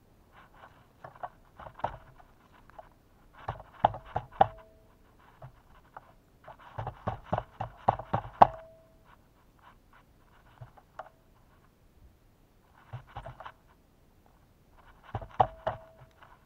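Irregular clusters of sharp taps and knocks from birds pecking and scrabbling at a feeder of sunflower seed and suet close to the microphone. A few of the harder strikes leave a short ringing tone.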